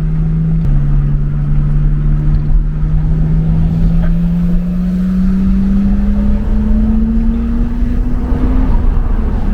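Nissan Skyline R32's turbocharged inline-six engine under way. Its note drops about half a second in, as on an upshift, then climbs steadily as the car gains speed, and drops again near the end.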